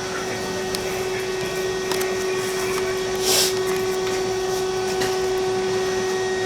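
A steady mechanical hum with a constant tone, and a short hiss about three seconds in.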